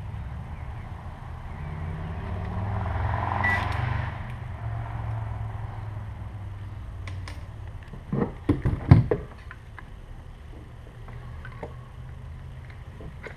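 A low, steady rumble that swells over the first few seconds and then eases off, followed about eight seconds in by a quick run of sharp knocks and clatter, like hard plastic parts of a trolling motor's head unit being handled and set down.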